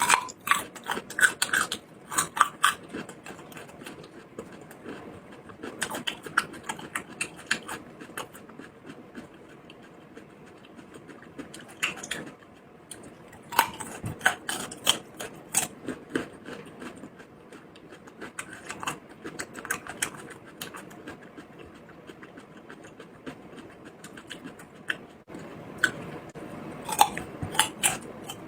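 A person chewing and biting food close to the microphone, mukbang-style eating sounds. They come in bursts of sharp clicky smacks a second or two long, with quieter chewing between.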